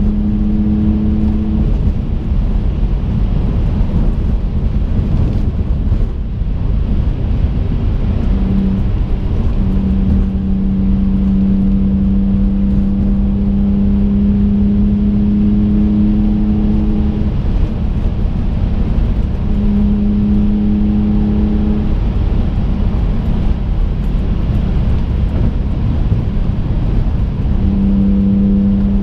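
Inside the cabin of a twin-turbo 2005 Infiniti G35 coupe driving at a steady speed: a loud low engine and road rumble. Over it sits an engine drone held at one constant pitch, which fades in and out several times.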